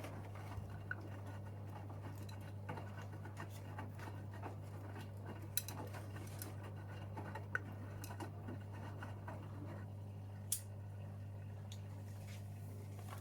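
Gorenje UseLogic 65165 front-loading washing machine mid-cycle: the drum motor hums steadily while the laundry tumbles and sloshes in water, with scattered small clicks and taps.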